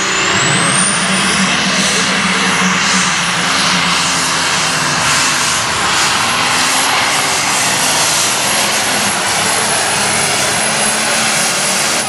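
Heavy super stock pulling tractor's turbocharged diesel engine running flat out under load during a pull. A high turbo whine climbs over the first second or so, holds steady, and falls away at the very end as the run ends.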